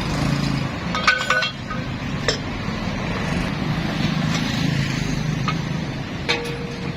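An engine running steadily, with several sharp metallic clinks of tools on metal that ring briefly: a cluster about a second in, one a little after two seconds, and one near the end.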